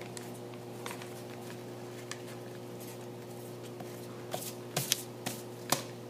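Sheet of paper being folded and creased by hand: soft rustling with a few sharp crinkles and taps, more of them in the last two seconds, over a steady low hum.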